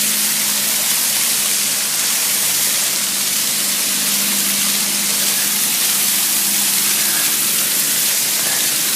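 Water of a small waterfall pouring and splashing, a steady rushing hiss.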